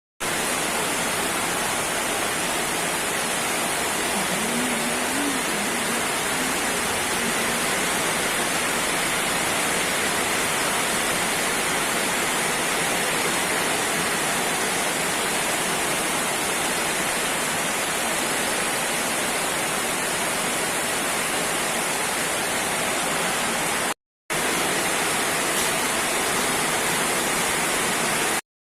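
Heavy rain pouring down in a steady, even hiss, broken by two brief gaps in the sound near the end.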